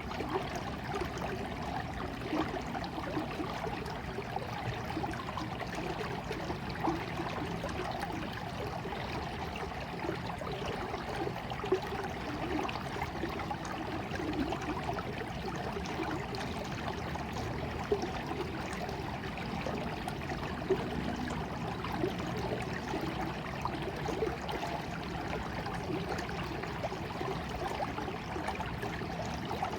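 Flowing water running steadily, with small bubbling blips and a few brief louder splashes now and then.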